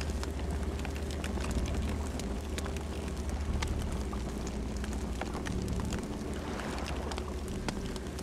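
Campfire burning: a steady low rumble of flames with frequent sharp crackles and pops of burning wood.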